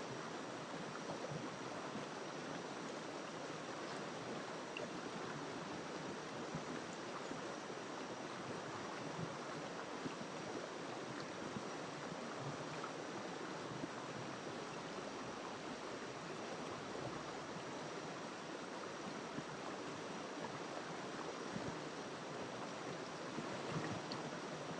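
River water rushing and flowing in a steady, unbroken wash.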